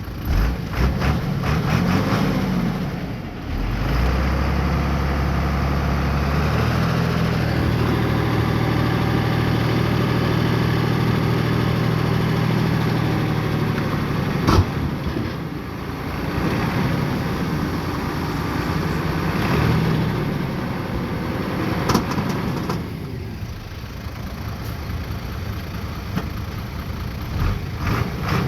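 Bulldozer's diesel engine running and working, its note rising and falling with the load, with a couple of sharp metallic knocks partway through.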